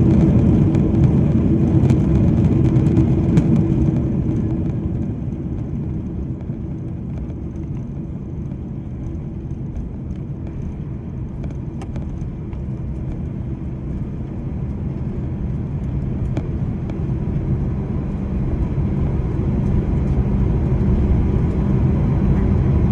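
Boeing 767 cabin noise on the ground after landing: a steady low rumble of engines and rolling wheels. It eases off over the first several seconds as the aircraft slows, then builds again toward the end.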